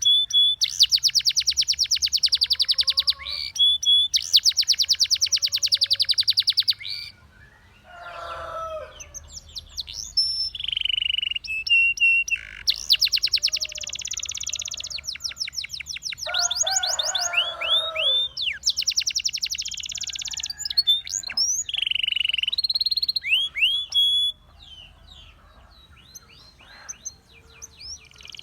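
Russian singing canary in full song: long rolls of rapid, rattling trills lasting a few seconds each, broken by clear whistled notes, upward-sweeping calls and two short, lower rasping phrases. For the last few seconds the song carries on much more quietly.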